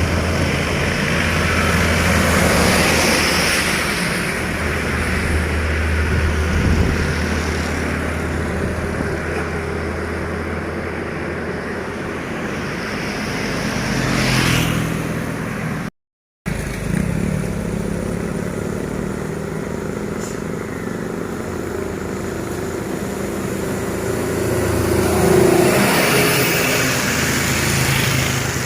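Heavy diesel trucks on a highway climb, engines running with tyre noise, several swelling louder as they pass close by. The sound drops out completely for a moment in the middle.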